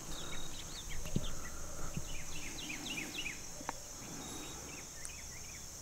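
Birds chirping: runs of quick, downward-sliding chirps, over a steady high hiss, with a few faint clicks.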